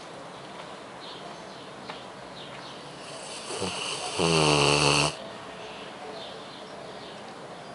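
A sleeping dog snoring: one loud snore about four seconds in, lasting about a second, with quieter breathing leading into it.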